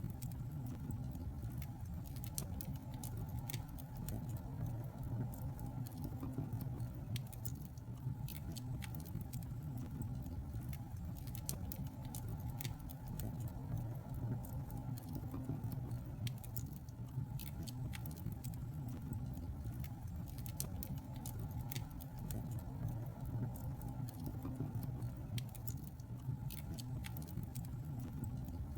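Fire burning in a fireplace, crackling: frequent, irregular sharp crackles and pops over a steady low rumble.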